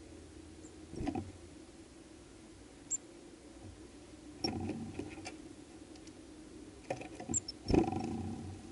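Small birds tapping and scrabbling on a seed feeder, in several short bouts of knocks, the loudest near the end, with a few tiny, very high chirps.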